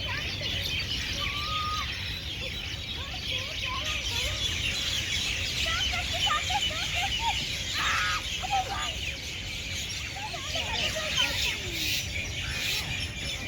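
A dense chorus of many small birds chirping continuously, with scattered lower, wavering calls mixed in, over a low steady rumble.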